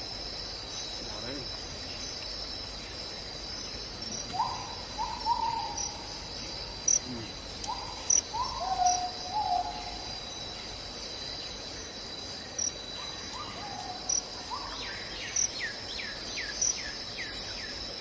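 A steady, high insect chorus of crickets, with a bird calling in short paired notes several times through the middle, then a quick run of falling chirps near the end.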